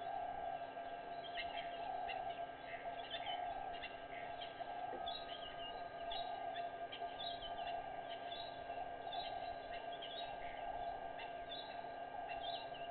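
Small birds chirping and calling, many short calls throughout, over a steady hum.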